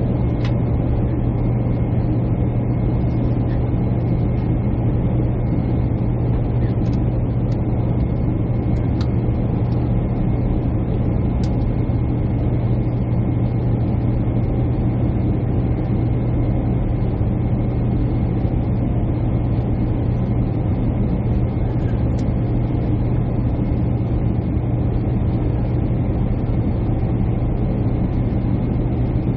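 Steady jet airliner cabin noise: an even engine and airflow rush with a strong low hum, plus a few faint ticks.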